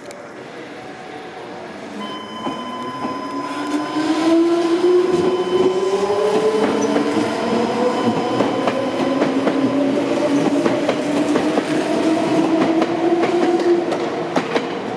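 Meitetsu 5300 series electric train pulling away from the platform and picking up speed. The traction motors give a whine that climbs steadily in pitch, under a quick clatter of wheels over the rail joints. The sound gets louder about four seconds in.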